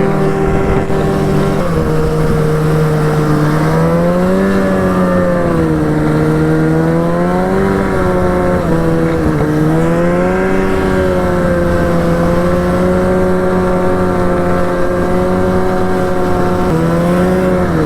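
Arctic Cat snowmobile engine running under way, its pitch dipping and rising a few times over the first ten seconds or so, then holding steady.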